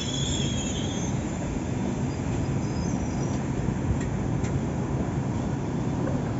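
Frecciarossa high-speed train rolling slowly past the platform, with a steady low rumble from its wheels and coaches. A high wheel squeal fades out in the first second, and a couple of sharp clicks come around four seconds in.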